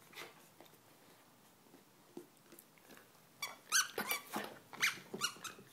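A dog's rubber squeaky sausage toy being bitten, giving a quick run of about six short, high squeaks that starts about three and a half seconds in.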